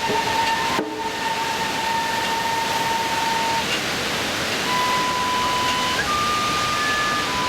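Strong wind buffeting the microphone with a steady rush, over which a flute plays long held notes that step up in pitch near the end; a single drum strike sounds about a second in.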